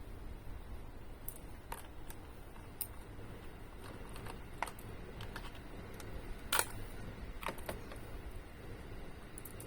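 Scattered light clicks and taps of tools and small parts being handled during motorcycle maintenance, about eight in all at uneven intervals, the loudest a little past the middle, over a faint low rumble.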